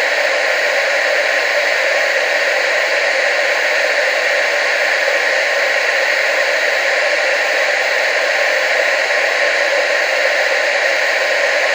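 Television static: a steady, unchanging hiss, loudest in the middle range, with little bass.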